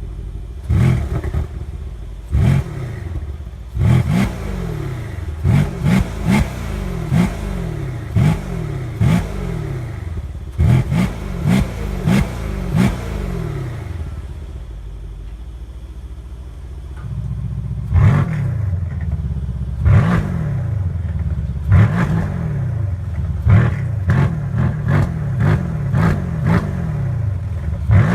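Mercedes C63 AMG 4.0-litre twin-turbo V8 through a bypass exhaust, idling with a long series of quick throttle blips, each rev rising sharply and falling back to idle. About two-thirds of the way in, the idle steps up noticeably louder and the blipping carries on.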